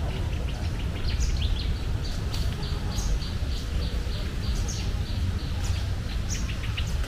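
Small birds chirping, with a run of short, high, evenly repeated notes about three a second through the middle, over a steady low rumble.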